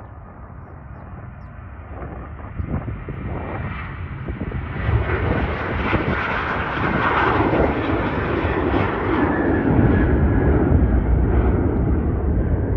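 Boeing 737-900ER jet airliner passing close, its twin turbofan engines growing steadily louder over the first half and staying loud near the end. A whine falls in pitch midway as the aircraft goes by.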